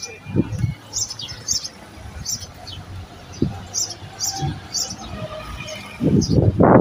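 A small bird chirps over and over: short, high chirps about once or twice a second. Near the end, a loud rushing noise sets in and drowns them out.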